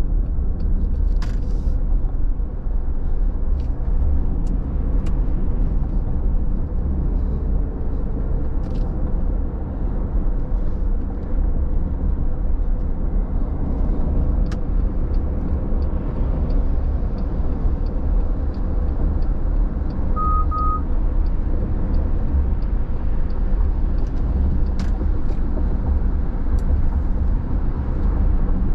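Steady low rumble of a car driving on a rain-wet road, engine and tyre noise, with faint scattered ticks. Two short identical beeps sound about twenty seconds in.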